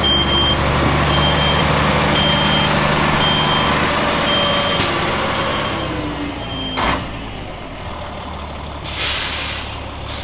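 A heavy vehicle's engine running while its backup alarm beeps about once a second, the beeping stopping about two-thirds of the way through. A sharp click comes about halfway, and a short burst of hiss about 9 s in.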